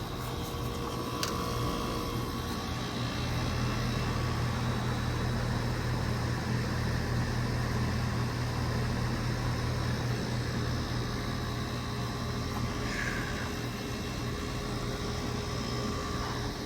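Goodman GSZ14 1.5-ton heat pump outdoor unit running in its defrost cycle: a steady compressor hum under an even hiss, growing a little louder about three seconds in.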